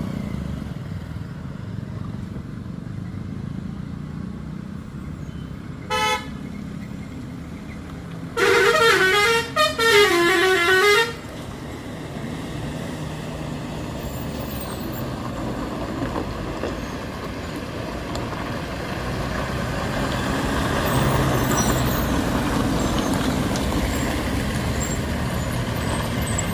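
Truck horn sounding: a short toot, then about two seconds later a loud, warbling multi-tone blast lasting about two and a half seconds, over a steady engine and road rumble that grows louder near the end.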